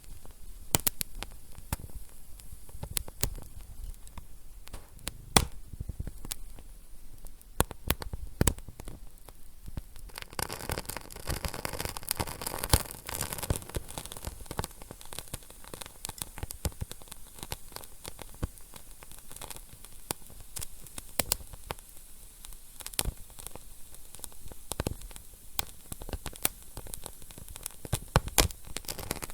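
Wood fire burning in a fireplace, crackling with frequent sharp pops over a steady hiss. The hiss swells about ten seconds in, then eases off a few seconds later.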